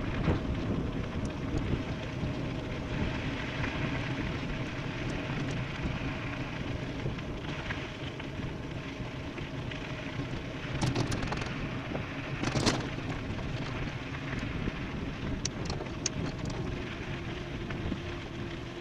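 Wind rushing over the microphone and tyre noise from an e-bike descending at speed, steady throughout. A few sharp clicks or rattles come a little past the middle.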